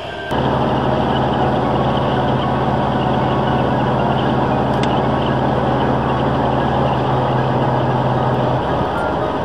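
Air-cooled Volkswagen Beetle flat-four engine running at a steady cruise, heard inside the cabin as a steady hum over road noise. The hum drops away about a second before the end.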